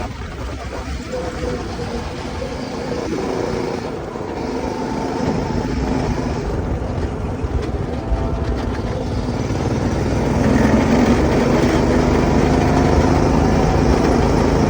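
Go-kart engine running steadily, getting louder about ten seconds in.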